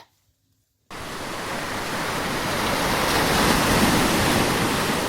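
A steady rushing noise, like wind or surf, that starts suddenly about a second in and swells slightly.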